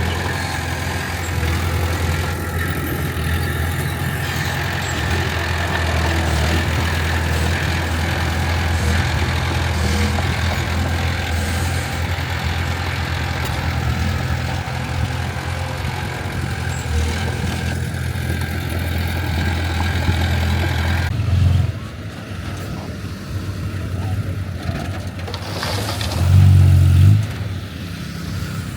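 Heavy diesel engine of earthmoving machinery running steadily under load with a deep hum. About three-quarters of the way through the sound drops sharply, and near the end there is a brief loud low surge, as of the engine revving.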